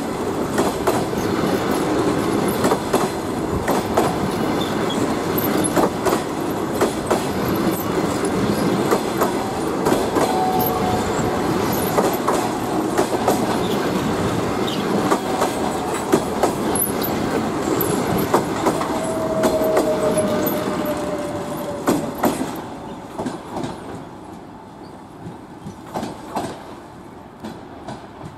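Passenger coaches rolling past at close range, their wheels clattering over the rail joints, with two brief squeals of the wheels. The clatter drops away about three quarters of the way through as the last coach moves off, leaving fainter clicks.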